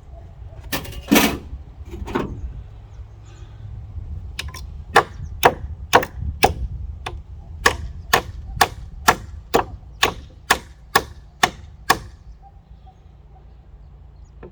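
Hammer striking a nail into a wooden fence: a few separate knocks, then a steady run of sharp blows about two a second that stops near the end.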